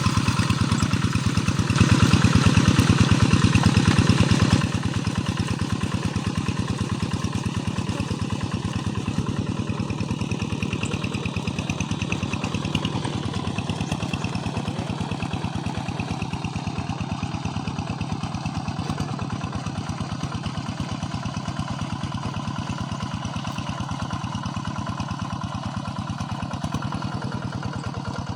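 Tractor engine running with a steady, fast, even pulse. It grows louder for a few seconds about two seconds in, then drops back and slowly fades a little.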